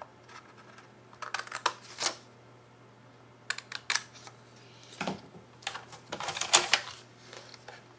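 Scissors snipping into cardstock: groups of short, crisp cuts and paper handling, with pauses between them.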